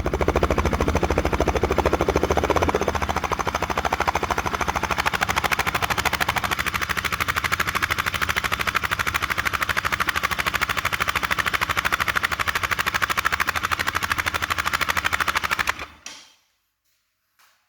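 Bajaj Pulsar RS 200's single-cylinder engine idling, its exhaust giving a rapid, even train of sharp pulses. The engine is switched off about sixteen seconds in and the sound cuts out.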